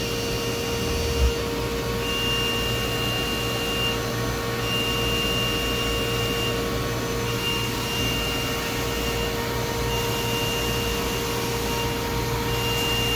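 Steady hum of running shop machinery with a constant mid-pitched tone, and a high whine that cuts in and out every couple of seconds. A single short knock about a second in.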